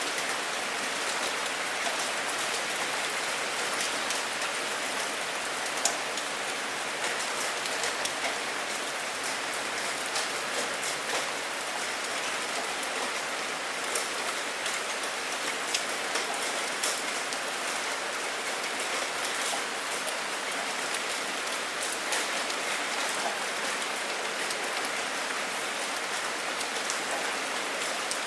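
Steady rainfall, a constant hiss with many sharp individual drop ticks scattered through it; no thunder.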